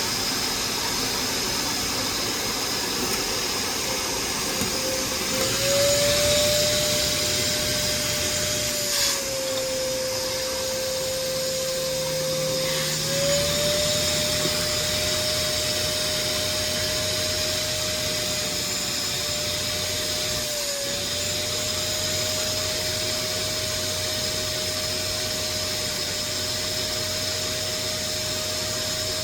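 A small electric motor running steadily with a whining hum. Its pitch drops for a few seconds about nine seconds in, then rises again, and dips briefly once more about twenty-one seconds in, as if its load is changing.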